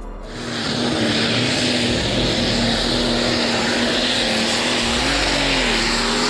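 A heavy tractor's engine running steadily under a loud hissing rush, its drone dipping and rising briefly near the end.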